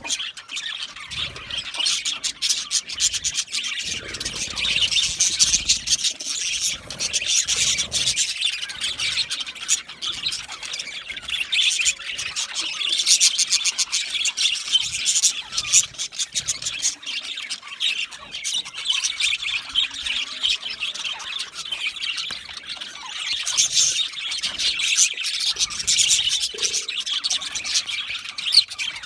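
Budgerigars chirping and chattering continuously, a dense stream of rapid high chirps, squawks and clicks.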